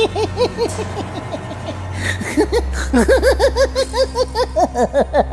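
High-pitched giggling laughter in quick repeated pulses, several a second, that eases off about a second in and picks up again densely about three seconds in, over a steady low hum.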